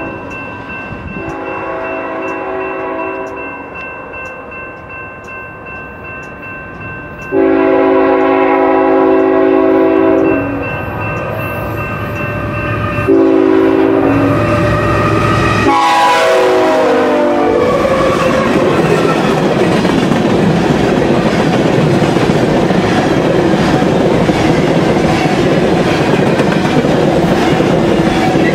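Freight locomotive's multi-chime air horn sounding a series of blasts as the train approaches, the loudest a long blast about 7 seconds in. The last blast falls sharply in pitch as the BNSF locomotives pass. After that comes the steady rumble and clatter of hopper cars rolling by on the rails.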